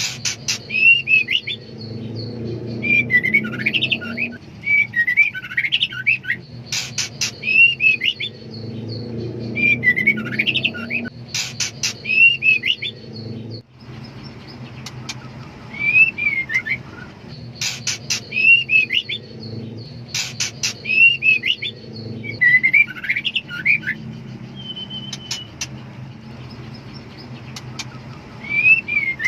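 Female white-rumped shama calling in breeding condition, the call of a hen seeking a male: groups of sharp clicks and short curling chirps repeated every two to three seconds. A low steady hum sits underneath and drops away about halfway through.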